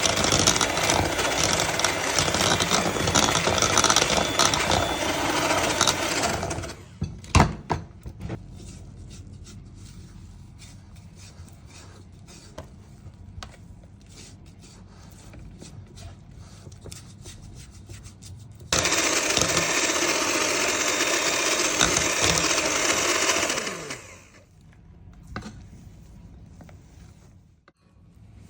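Small electric kitchen appliance motor running in two bursts, with light clicks and knocks in the quiet gap between them. It stops abruptly about six and a half seconds in, starts again suddenly later, runs for about five seconds, and winds down with a falling pitch.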